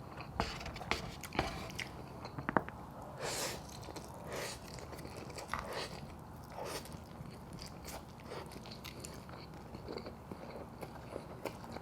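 A person chewing food close to the microphone, with irregular mouth and chewing noises. There are several sharp clicks in the first couple of seconds, then softer, wetter chewing sounds every second or so.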